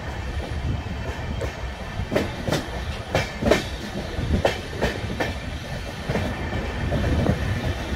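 Express passenger train running, heard from the coach: a steady low rumble, with a quick run of sharp wheel clacks over the track a couple of seconds in that dies away a few seconds later.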